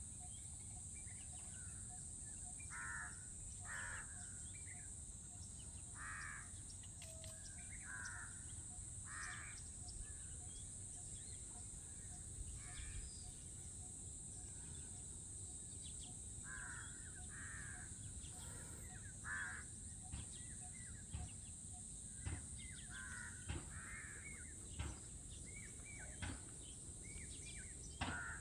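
Crows cawing: short harsh calls at irregular intervals, sometimes two or three in quick succession, over a steady high hiss.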